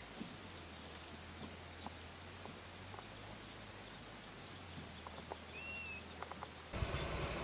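Faint outdoor ambience: high-pitched chirps repeating a little under twice a second, with one short bird-like whistle near the end. A louder steady noise cuts in abruptly just before the end.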